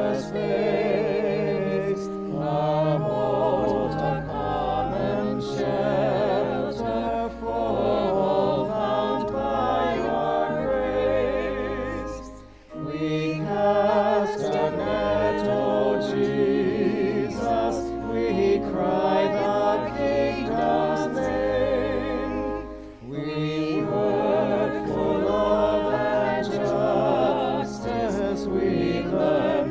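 Voices singing a slow hymn with vibrato over sustained low accompaniment, with brief breaks between phrases about twelve and twenty-three seconds in.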